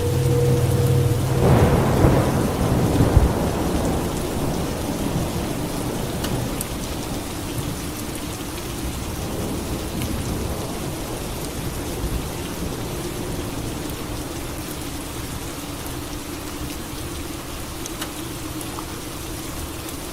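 Steady rain falling, with a rumble of thunder that swells about a second and a half in and dies away over the next few seconds.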